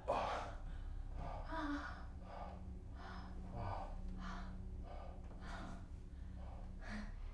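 A person breathing in quick, faint gasps, about one breath every half second to second, over a steady hum.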